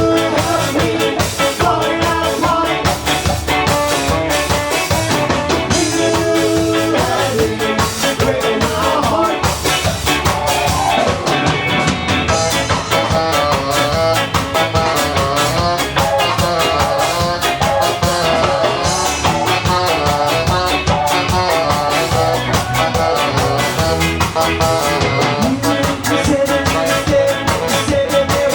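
Ska band playing live: drums, bass and guitar in a steady ska groove, with a voice singing at times.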